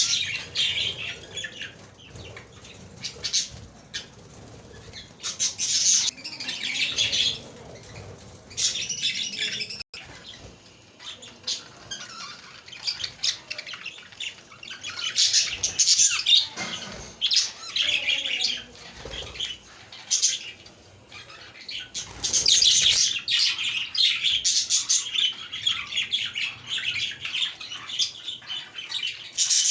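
A group of budgerigars chirping and warbling, their chatter coming in bursts and becoming almost continuous in the last third.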